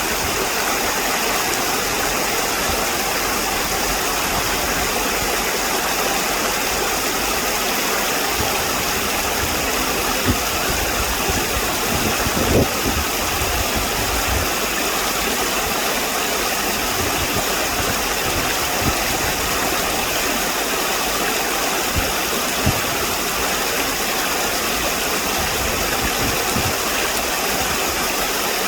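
Steady rushing background noise with no distinct events, broken by a few faint low knocks, the clearest about halfway through.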